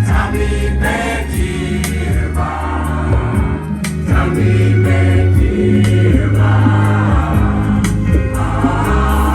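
A choir singing gospel-style music over a deep bass line and a steady percussion beat.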